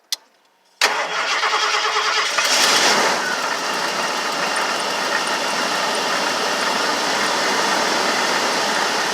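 Winnebago Itasca Spirit motorhome's engine starting: a click, then under a second later the engine catches suddenly, runs higher for about two seconds and settles into a steady idle.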